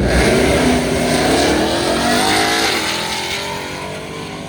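Ram TRX pickup's supercharged V8 accelerating hard from the launch, its pitch climbing, dipping at a gear change nearly three seconds in, then climbing again as the truck pulls away and fades.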